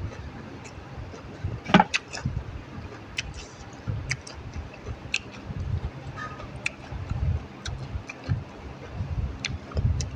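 Close-up eating sounds: chewing and crunching of raw vegetables, with many wet mouth clicks and lip smacks, one sharp crunch about two seconds in.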